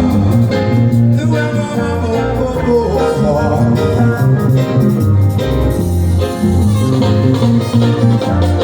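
Live band playing an instrumental stretch of an upbeat African pop song with guitar and a strong bass line, loud through a stage sound system.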